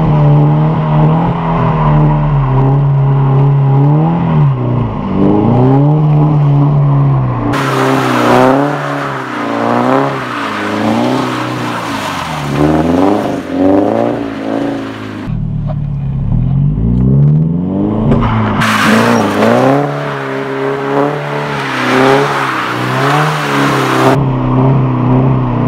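Subaru BRZ's flat-four engine revving as the car is slid around on wet tarmac. For the first several seconds the note holds fairly steady with slow rises. From about eight seconds in it swings up and down quickly, over and over, and a steady hiss lies under it in stretches.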